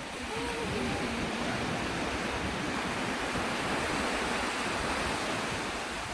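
Steady rushing water noise, an even hiss-like wash of surf or falling water with no clear breaks.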